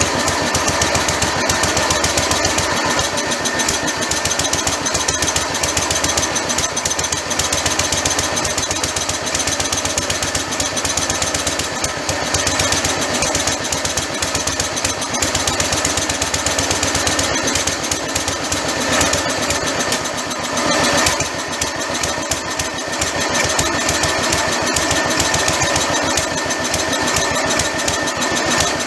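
Lister D single-cylinder stationary engine running steadily with rapid, even firing strokes, on nothing but the fuel in its carburetor bowl just after the carburetor was reworked. The level sags briefly about two-thirds of the way through.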